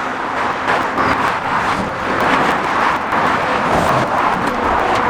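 Steady rush of motorway traffic passing close by: tyre and engine noise from cars on the carriageway next to the hard shoulder.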